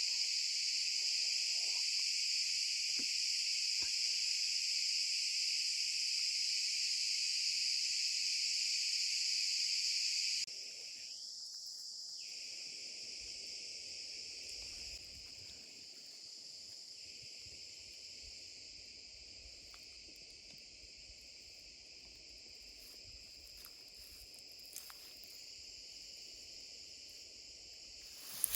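Steady, high-pitched insect chorus. It drops suddenly in level about ten seconds in, and again a few seconds later, then carries on quieter.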